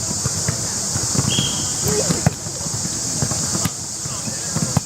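Volleyball match ambience: scattered knocks and thumps of play and players' voices, a brief high tone a little over a second in, all over a steady high hiss.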